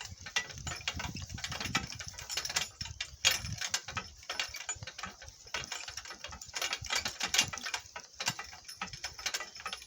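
Donkey cart rattling and clattering as it rolls over rough ground: a dense, irregular run of clicks and knocks from the cart and its loosely fixed camera mount.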